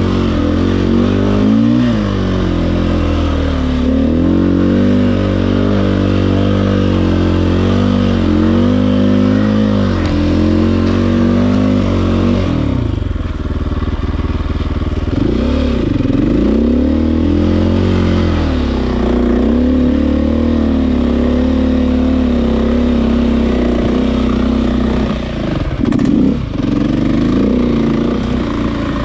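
KTM EXC enduro motorcycle's single-cylinder four-stroke engine being ridden hard off-road. The revs rise and fall again and again, and several times the throttle is shut and snapped open, so the pitch drops and swoops back up.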